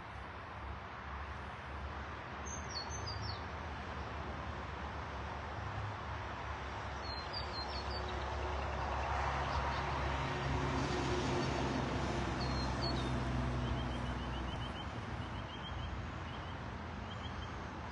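Small birds chirping in short calls, with a quick run of repeated notes near the end, over a steady outdoor background. A low engine hum swells through the middle and fades, like a vehicle passing.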